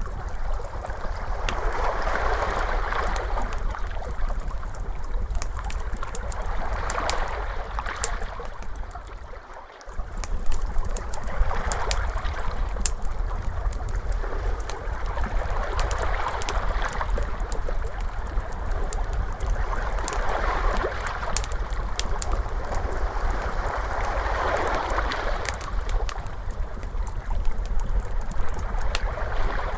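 Ocean waves washing in and out in swells every four to five seconds, with a wood fire crackling in sharp pops throughout, over a low rumble. The sound dips briefly and comes back about nine and a half seconds in.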